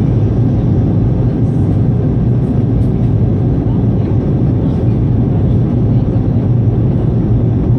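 Steady cabin roar of an Airbus A220-300 in flight, from its Pratt & Whitney PW1500G geared turbofans and the airflow over the fuselage, heard from a window seat; loud, even and deep, with a low hum underneath.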